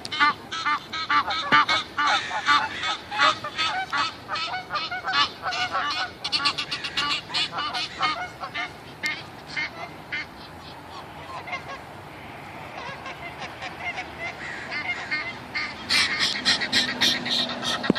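A flock of geese honking, many calls overlapping in quick succession. The calls thin out for a few seconds midway and pick up again near the end.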